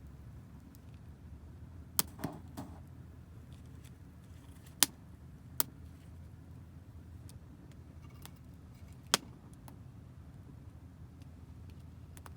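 Wood fire crackling, burning damp firewood: a scatter of faint ticks with a few loud, sharp pops, the first of them about two seconds in, over a steady low rumble.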